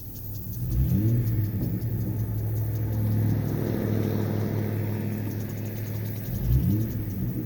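Muffler-deleted exhaust of a 2003 Ford Ranger's 4.0 L V6, with its catalytic converters still in place, running under way. It revs up about a second in, settles into a steady low drone, and revs up again near the end.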